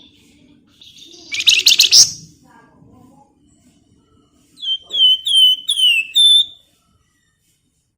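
Flamboyan songbird singing: about a second in, a fast, dense chattering trill, then near the middle a run of five loud whistled notes, each sliding down in pitch.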